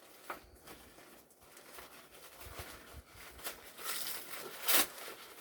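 Vacuum-cleaner packaging rustling and crinkling as the accessories are pulled out of the box, getting busier in the second half, with the loudest crinkle near the end.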